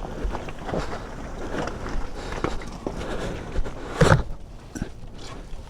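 Footsteps and scuffing on loose ground while a stuck motorcycle is pushed back onto the road, with scattered knocks and one loud thump about four seconds in.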